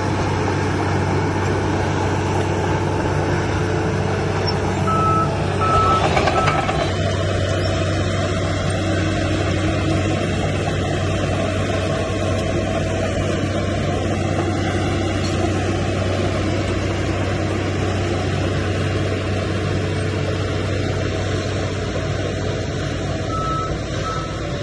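Heavy diesel earthmoving machinery running steadily, with a reversing alarm sounding three short beeps about five seconds in and three more near the end.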